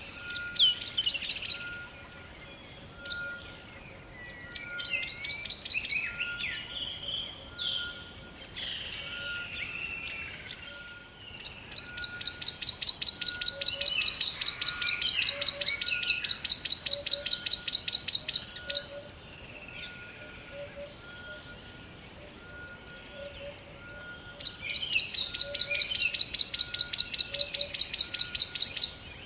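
Several birds calling and singing, with short chirps throughout; twice one bird gives a long, loud run of rapid repeated high notes, about five a second, lasting several seconds.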